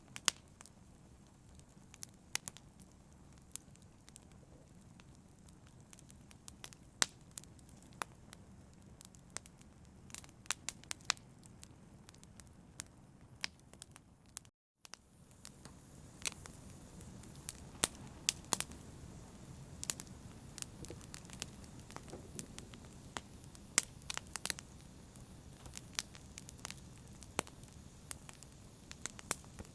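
Wood fire crackling: irregular sharp pops and snaps over a soft steady hiss. A split-second gap of silence cuts in about halfway, after which the fire resumes a little fuller.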